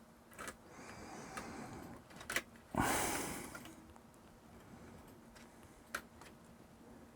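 Faint handling sounds of a ribbon-cable connector being lined up and pressed onto a pin header: a few small clicks and one brief scraping rustle about three seconds in.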